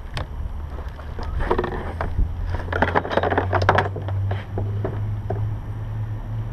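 Wind rumbling on the microphone, with bouts of clattering and scraping from a heavy electric jackhammer and its parts being handled, about a second and a half in and again around three seconds in.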